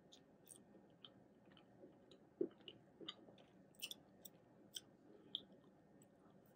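Faint chewing of ice cream cake with a crisp layer: scattered soft mouth clicks and smacks, a few a second, the loudest about two and a half seconds in.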